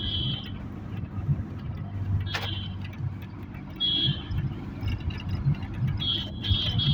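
Steady low engine rumble of a motor vehicle, with short high chirps every second or two and one quick falling whistle a couple of seconds in.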